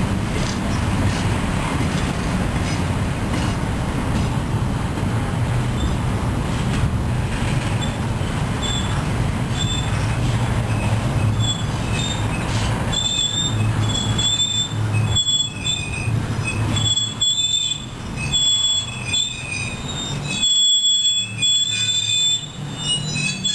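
Double-stack container train of well cars rolling past: a steady rumble of wheels on the rails, with high-pitched wheel squeal coming and going in the second half.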